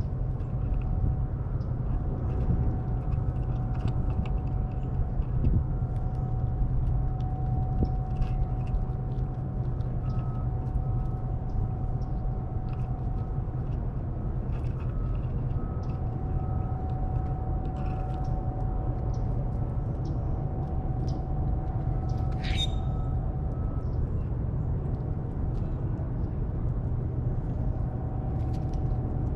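Squirrels cracking sunflower seeds: scattered small crunchy clicks over a steady low rumble and a faint steady hum. One sharp, short bird chirp comes about 22 seconds in.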